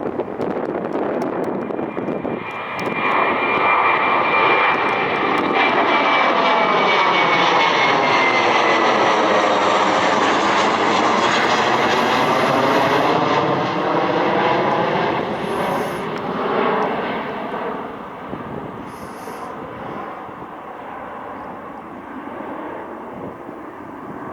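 An airliner taking off and passing by. Its engine rush swells over the first few seconds, holds at its loudest for about ten seconds, then fades away. A thin whine drops slowly in pitch as it passes.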